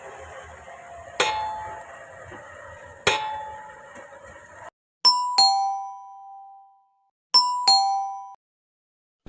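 Two sharp knocks, just under two seconds apart, over a steady background hiss. Then, after a cut to silence, a two-note falling ding-dong chime sounds twice.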